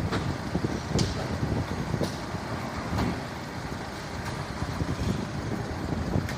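Low rumble of a vehicle engine running, with light sharp clicks roughly once a second.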